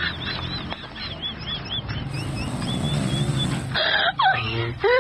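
Animal calls: a rapid run of short, high chirps, about four or five a second, with a lower grunting sound under them, changing abruptly about four seconds in to different sliding squeaky calls.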